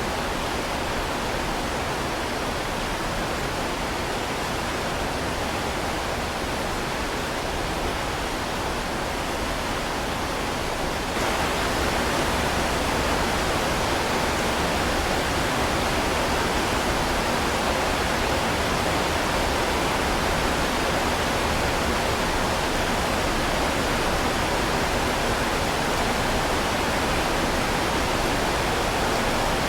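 Heavy rain falling as a steady, even hiss. About eleven seconds in it turns abruptly louder and brighter, then holds steady.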